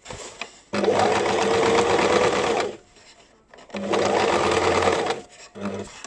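Basic electric sewing machine stitching in two runs of about two seconds each, then a short burst near the end, stopping and starting as the foot pedal is pressed and released.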